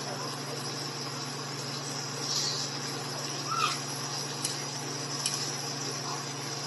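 Chicken and mixed vegetables sizzling in a nonstick wok with a steady hiss, a spatula scraping and tapping the pan a few times in the middle, over a steady low hum.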